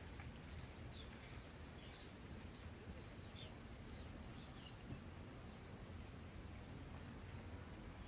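Faint, short, high bird chirps, many and scattered, over a low steady background noise.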